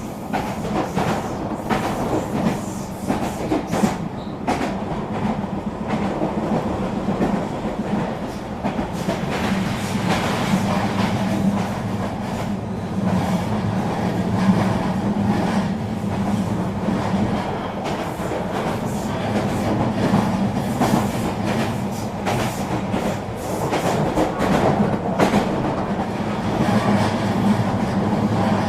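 Eurobahn regional train running along the line: a steady rumble and hum, with irregular clicks and clatter from the wheels on the rails.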